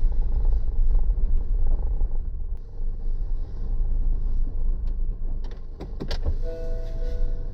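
Car running on the road with a steady low rumble, a few sharp clicks about three quarters of the way through, then steady tones near the end.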